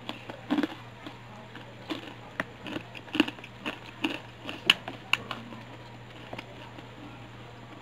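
Close-up chewing of crispy, thickly battered fried chicken: irregular crunches and wet mouth clicks, coming thickly for the first five seconds or so and thinning out near the end.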